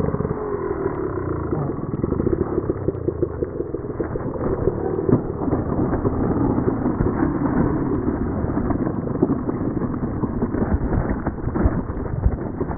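Enduro motorcycle engine running on a steep, stony trail, its note rising and falling with the throttle, along with frequent knocks and rattles from the bike over the rocks.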